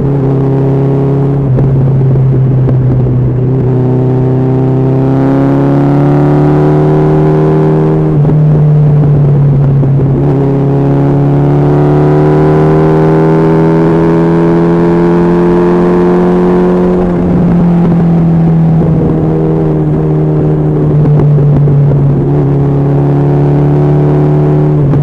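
Honda CB1300SF inline-four motorcycle engine running at speed, loud. Its revs climb slowly twice, dropping back about a third of the way in and again about two-thirds in, then hold steady.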